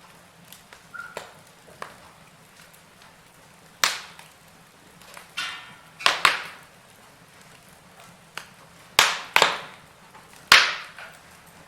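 Wood fire in a fireplace crackling, with a run of sharp pops and snaps from the burning logs over a soft hiss.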